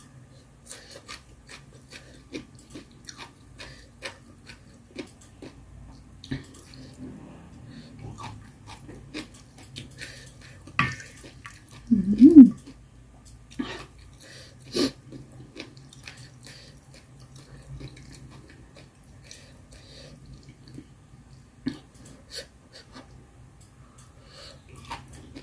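A person eating mala hotpot close to the microphone: chewing and wet mouth sounds with many small scattered clicks, and a short hummed sound about twelve seconds in.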